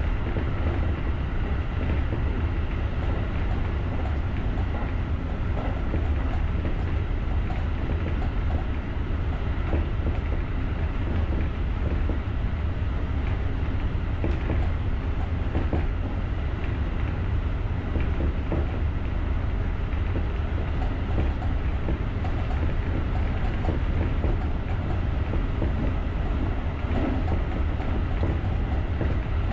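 JR rapid electric commuter train running along the line, heard from the driver's cab: a steady low rumble of wheels on rails with faint clicks now and then.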